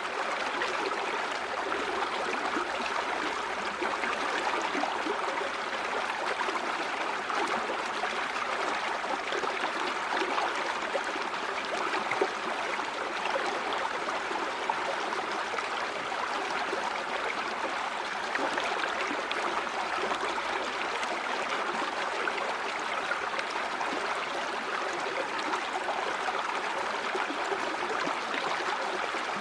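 A river or stream flowing steadily over rocks, with fine gurgling and splashing.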